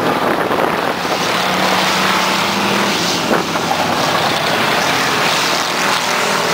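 Race truck engines running at speed on a speedway track: a loud, steady mix of engine and track noise.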